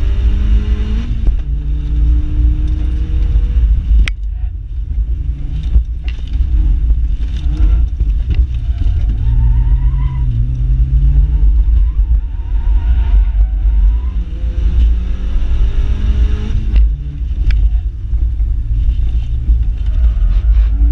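Honda Civic 1.6 SOHC inline-four engine heard from inside the cabin under hard driving, its pitch climbing and then dropping sharply at gear changes and lifts several times, over a heavy low rumble.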